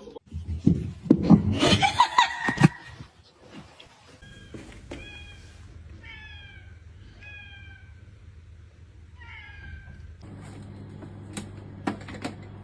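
A cat meowing: about six short, high calls, each falling in pitch, after a louder stretch of noisy sound in the first few seconds.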